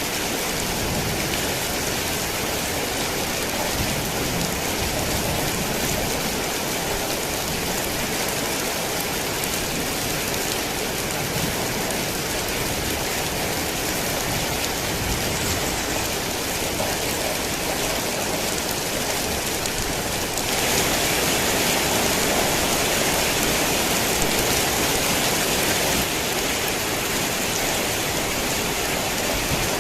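Steady rain falling, a dense even hiss of drops. About two-thirds of the way through it turns louder for several seconds, then eases back.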